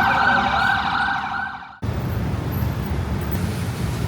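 Emergency vehicle siren wailing, fading down and cut off abruptly just under two seconds in, then steady city traffic noise.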